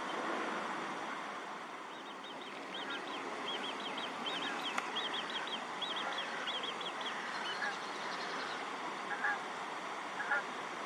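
Birds calling at a pond over a steady hiss: a quick run of short high notes, about five or six a second, for several seconds, then a few brief, lower calls near the end.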